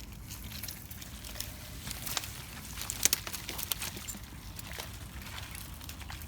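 Bicycle riding over wet, rough forest ground: irregular crunching, rattling and clicking over a low rumble, with a sharp knock about three seconds in.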